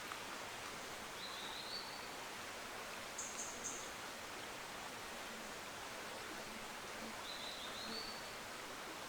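Steady rush of a fast-flowing forest river. Over it a bird twice gives a short rising whistled phrase, with three quick high-pitched notes in between.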